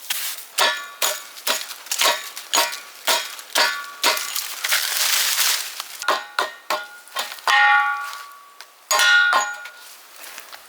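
Metal being struck: sharp ringing clanks about twice a second for the first four seconds, then a few louder, longer-ringing clangs in the second half.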